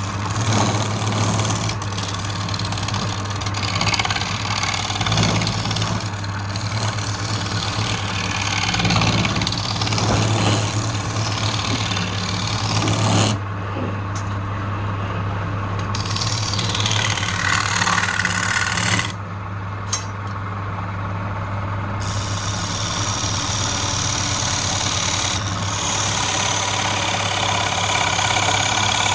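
Wood lathe running with a steady motor hum while a tool scrapes against the spinning wood; the scraping stops for a couple of seconds twice, about halfway through and again a few seconds later, leaving only the motor.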